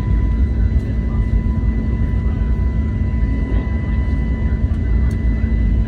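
Airbus A321neo cabin noise from its CFM LEAP-1A engines and airflow: a steady low rumble with a constant hum and faint high steady tones over it.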